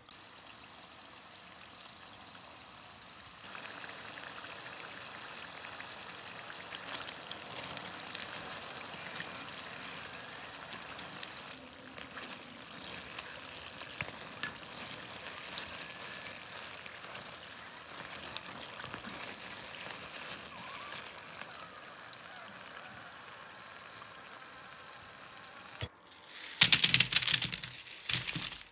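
Cornstarch-coated potato strips deep-frying in hot oil: a steady bubbling sizzle with small crackles that grows a little about three and a half seconds in. Near the end comes a loud rattling rustle as the fried potatoes are tipped from a mesh strainer onto a paper-lined basket.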